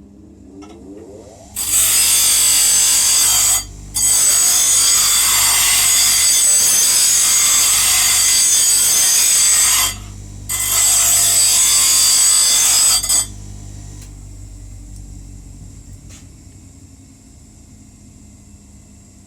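Electric grinder spinning up, then grinding the steel of a puukko knife blade in three long passes with two short breaks, then winding down once the blade is taken off.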